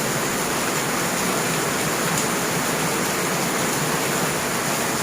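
Heavy rain falling: a loud, steady hiss with no let-up.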